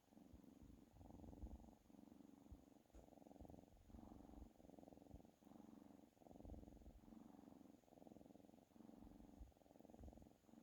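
Domestic cat purring softly, a low rumbling purr that swells and breaks about once a second with each breath in and out.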